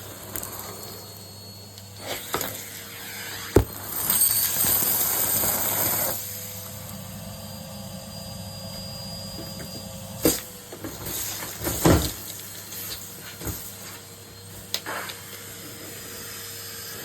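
Numatic Henry cylinder vacuum cleaner running: a steady motor hum under a hiss of suction, which rises to a louder rush for about two seconds. A few sharp knocks and clicks come at intervals.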